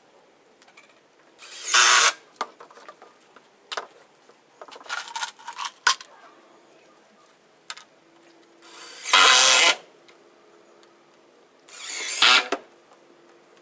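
Power drill driving screws in three short bursts, each revving up and stopping after about a second, with clicks and knocks of handling between them.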